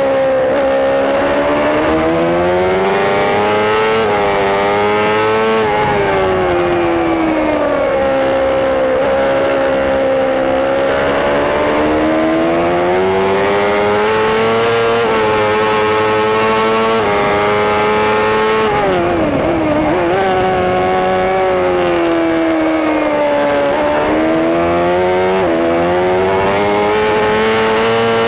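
Superbike racing motorcycle engine heard on board at race pace. The revs climb with quick drops at each upshift, fall with blips on downshifts about two-thirds of the way through, then climb through the gears again.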